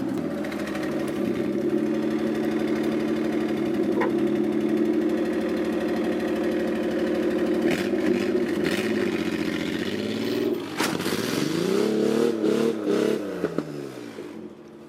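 Nissan Pathfinder engine running steadily, then revving up and down a few times in the last few seconds, with a couple of sharp knocks.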